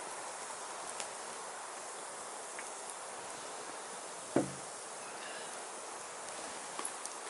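Firewood burning with a steady hiss and scattered small crackles. About four seconds in there is one louder pop or knock that rings briefly.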